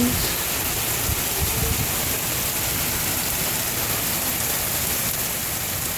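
Rain pouring down in a steady, even hiss: a heavy downpour.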